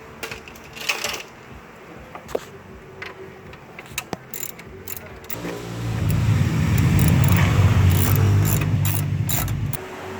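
Sharp metallic clicks and knocks of tools at work on the car, then a loud, low mechanical running sound for about four seconds that cuts off abruptly.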